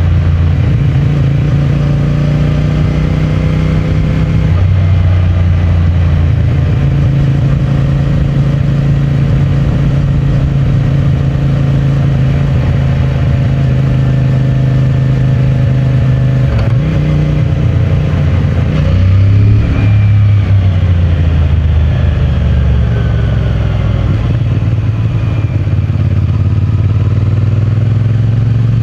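CFMOTO 450MT's 449 cc parallel-twin engine running through its stock exhaust while riding, a steady engine note that shifts pitch a few times with throttle and gear changes. About twenty seconds in, the revs rise briefly and fall again.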